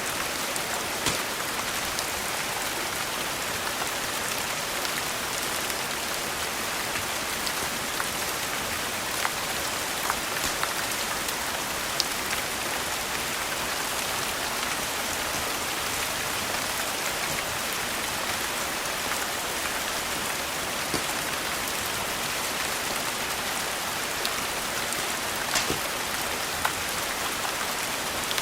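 Steady rain falling, an even hiss, with scattered sharp pops from a crackling wood fire.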